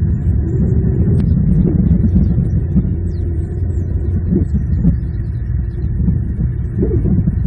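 Steady low rumble of road traffic picked up by an outdoor nest-cam microphone, with a few faint high chirps.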